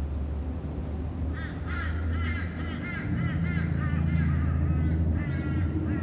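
A bird calling in a quick series of repeated harsh notes for about two and a half seconds, then a shorter series near the end, over a steady low rumble.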